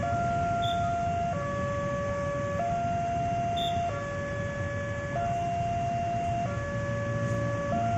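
Two-tone hi-lo siren, alternating between a higher and a lower note, each held a little over a second, over a low rumble.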